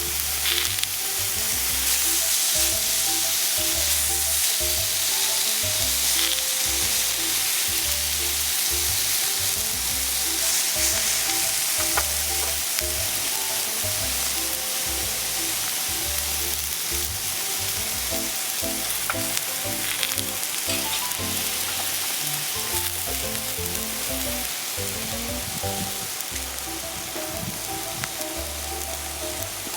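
Food sizzling steadily on a hot steel griddle plate, a dense frying crackle with occasional sharp pops, over soft background music.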